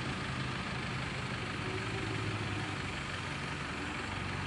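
Off-road 4x4 truck engine running steadily at low revs, a low, even engine drone.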